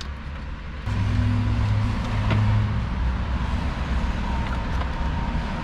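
A motor vehicle engine running, a steady low hum that gets louder about a second in, with a light click in the middle.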